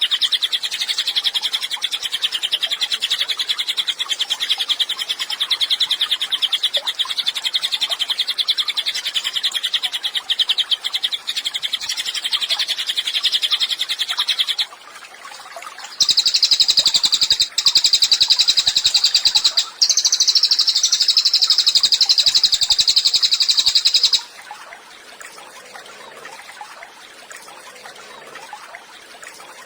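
Cililin bird singing a long, very fast trill. It breaks off about halfway through, and after a short pause comes a second, higher trill that breaks twice briefly. Then the song stops, leaving only a faint background.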